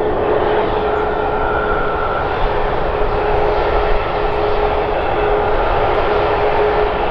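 Airbus A320neo-family jet engines running steadily, a constant rushing noise with a held whine in it and no rise or fall in power.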